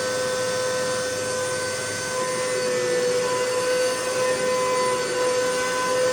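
Hoover MaxLife upright vacuum cleaner running steadily with a high motor whine, with slight changes in level as it is worked over the floor.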